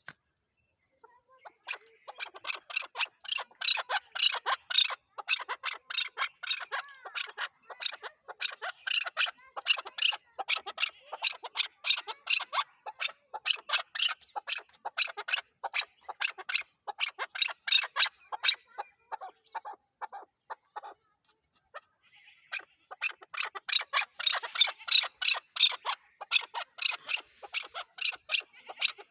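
Chukar partridge (chakor) calling: long, rapid runs of short, sharp chuck notes. The calling pauses briefly about a second in and again about three-quarters of the way through.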